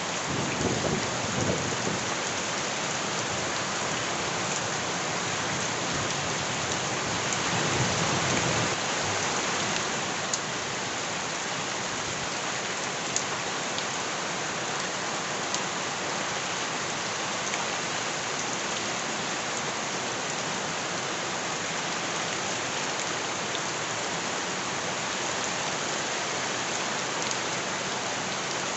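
Steady heavy rain falling on surfaces, with two low rumbling swells, one just after the start and one about eight seconds in.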